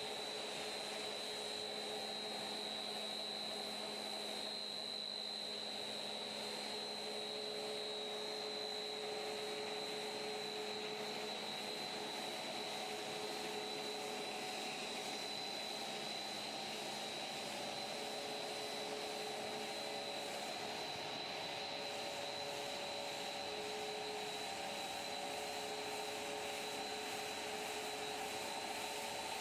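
Floating fish feed machine running at a steady pitch: an even motor hum with a high, constant whine over it.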